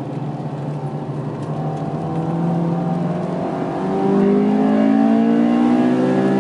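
Honda S2000's four-cylinder engine heard from inside the car, holding steady revs and then, from about four seconds in, getting louder and rising in pitch as it accelerates.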